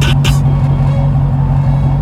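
A car engine running with a steady low drone. Music with sharp cymbal-like hits plays over it for the first moment, then stops.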